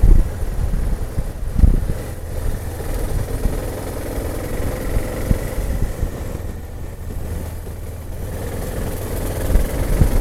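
Motorcycle engine running steadily while riding, with gusty wind rumbling on the microphone, heaviest in the first couple of seconds and again near the end.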